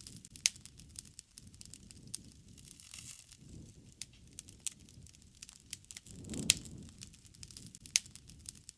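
Wood fire crackling, with irregular sharp pops over a low, uneven rumble. The loudest pops come about half a second in, about six and a half seconds in (where the rumble briefly swells) and about eight seconds in.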